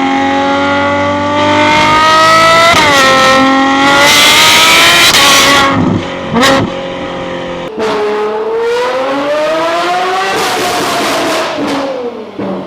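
Naturally aspirated V12 supercar engine revving hard under acceleration, its pitch climbing through the gears with an upshift near three seconds. About six seconds in it drops off suddenly with a couple of sharp cracks, then climbs again and falls away near the end.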